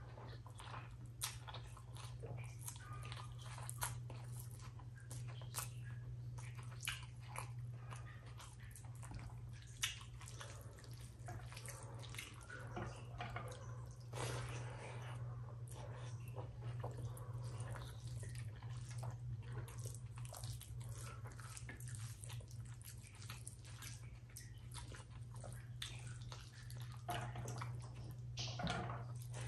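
Wet chewing of big mouthfuls of rice and mashed potato (aloo bharta) eaten by hand, with many small clicks and smacks. A steady low hum runs underneath.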